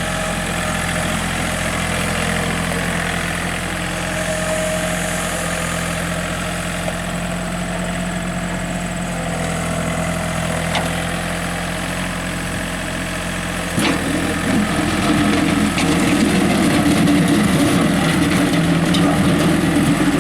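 John Deere 3320 compact tractor's three-cylinder diesel engine running steadily at idle, getting louder about fourteen seconds in.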